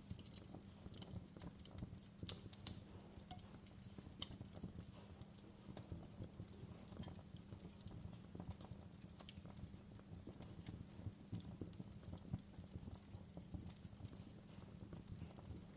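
Wood fire crackling in a fireplace: irregular snaps and pops over a faint, steady low rumble of the flames, with one sharper pop a little over two and a half seconds in.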